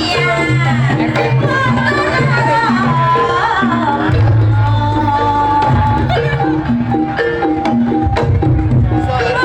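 Jaranan music: Javanese hand drums (kendang) driving a steady beat under a repeating figure of short pitched metal-percussion notes and a wavering, sliding melody line. The low drumming grows heavier about four seconds in.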